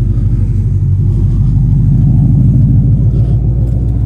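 2012 Mustang GT's 5.0-litre Coyote V8 running at low speed as the car is moved, a deep steady rumble that swells a little midway.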